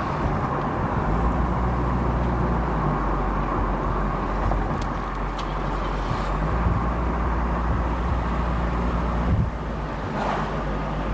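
Car engine running and tyres on the road while driving slowly, heard from inside the cabin, a steady low hum; about nine seconds in the engine note drops away and it gets a little quieter.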